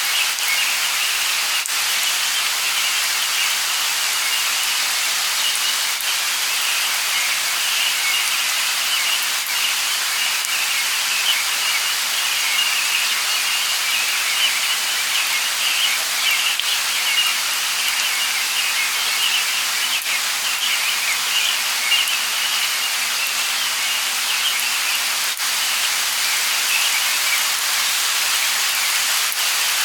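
Steady light rain falling, with a few single drops ticking out now and then.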